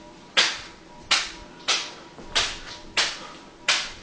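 A fruit snack packet being slapped upward by hand again and again to keep it in the air: six sharp smacks in a steady rhythm, about one every two-thirds of a second.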